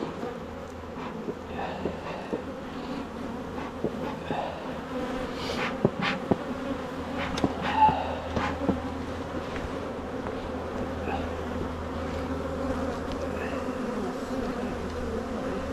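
Honeybees buzzing in a steady hum around an opened hive. A few light clicks and knocks come about halfway through.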